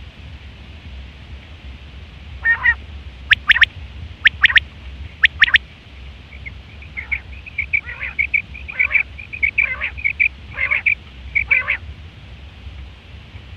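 Quail calling: four sharp, separate call notes, then from about halfway in a quick run of chattering notes, over a steady low hum.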